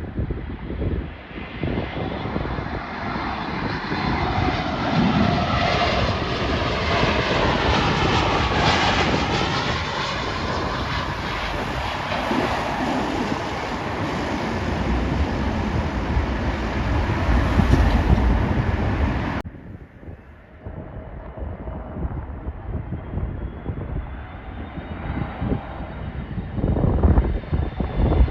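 Jet airliner on final approach passing close by, its engine whine sweeping in pitch as it goes over, with wind buffeting the microphone. An abrupt cut a little past two-thirds in leads to another arriving jet, its whine growing near the end.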